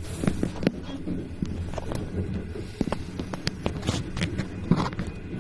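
Passenger train running, heard from inside the carriage: a steady low rumble with many irregular clicks and knocks.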